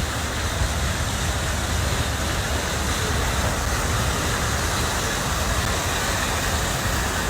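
Steady rumble of traffic: many cars running and moving slowly in a line.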